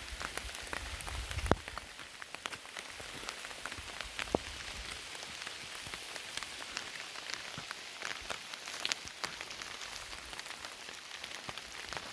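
Steady rain falling, a hiss with many separate drops ticking close by. Two louder knocks come about one and a half seconds and about four seconds in.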